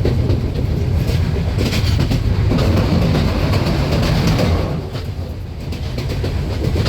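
Passenger train running along the track: a steady rumble of wheels on the rails, easing slightly after about four and a half seconds.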